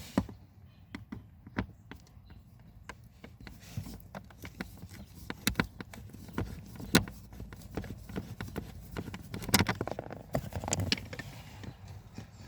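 Irregular clicks, taps and knocks of hands and tools working on a VW Golf 7's interior parts during an HVAC flap motor replacement. The sharpest come just at the start, about seven seconds in and about nine and a half seconds in.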